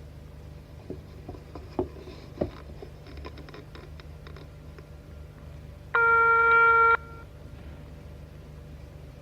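Telephone sounds: a run of sharp clicks and knocks, then a single loud electronic beep about a second long, over a steady low hum.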